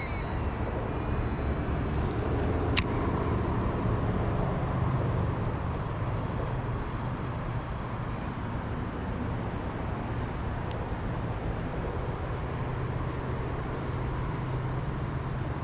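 Outdoor field ambience dominated by a steady, low mechanical rumble, with a few high chirps in the first few seconds and a single sharp click about three seconds in.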